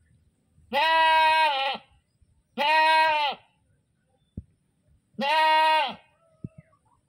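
A goat bleating loudly three times, each call about a second long with a slightly wavering pitch. There are a couple of faint short knocks between the calls.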